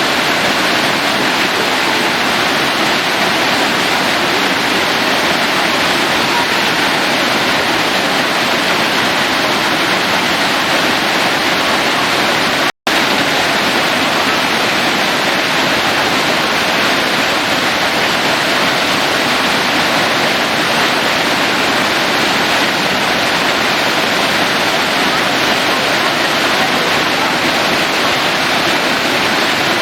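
Waterfall pouring steadily into a pool, a dense, even rush of water; the sound drops out for an instant about thirteen seconds in.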